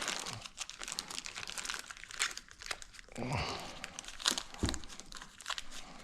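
Thin plastic bag crinkling and rustling as it is handled, with many sharp, irregular clicks and crackles.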